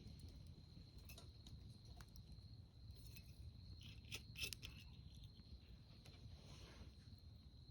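Faint campfire crackling, with scattered sharp pops and the loudest cluster about four seconds in, over a steady high-pitched insect trill.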